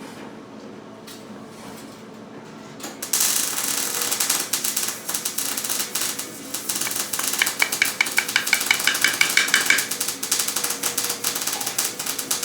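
Metal being scraped in quick, rapid strokes, starting suddenly about three seconds in and settling into an even rhythm of about four strokes a second partway through.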